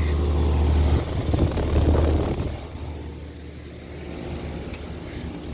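Rooftop air conditioner condensing unit running, a steady low hum with its fan. About one to two seconds in there is a brief rush of noise, and after about two and a half seconds the hum gets quieter.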